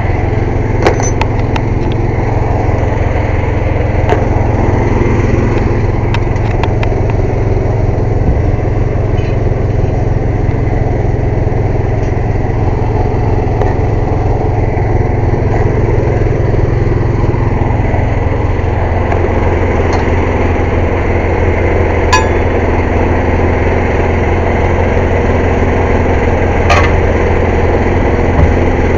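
Small gas engine of an air compressor running steadily at a loud, even drone. A few sharp clicks or knocks sound over it, twice near the end.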